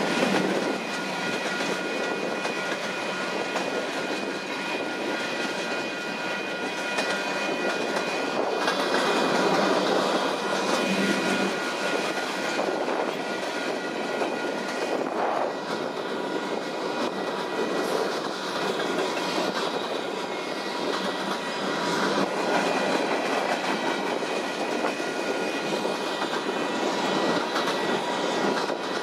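Freight cars of a long mixed freight train rolling past: a steady rumble of steel wheels on rail with irregular clacking, and thin steady squealing tones from the wheels.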